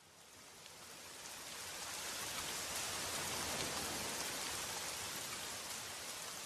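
Steady rain-like hiss with faint scattered pattering, fading in from silence over the first two seconds, then holding even.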